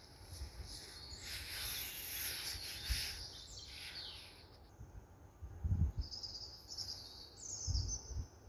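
Birds chirping and singing, busiest between about one and four seconds in, then a thinner high song with short pitch glides near the end. A few brief low thumps, mostly around six and eight seconds in.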